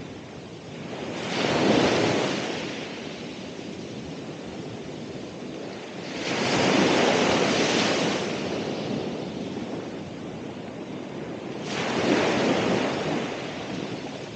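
Ocean waves breaking on the shore, three sets about five seconds apart, each rising to a rush and then washing back, with a steady surf hiss between them.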